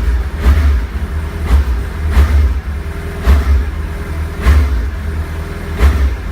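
Suzuki Hayabusa inline-four sport-bike engine revved through its exhaust in a series of short throttle blips, roughly one a second, dropping back toward idle between them.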